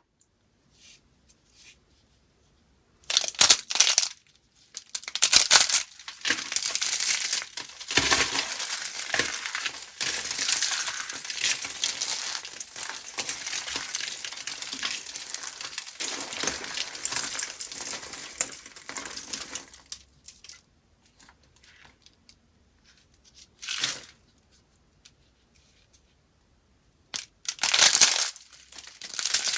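Dry soap pieces being crushed, a crisp crunching and crackling. It comes in bursts: two short ones, then a long stretch of about twelve seconds, then a short one and a loud one near the end.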